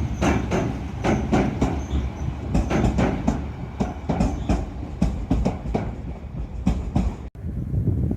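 Shizuoka Railway electric train passing, its wheels clacking rapidly and repeatedly over rail joints above a steady rolling rumble. The sound cuts off abruptly near the end.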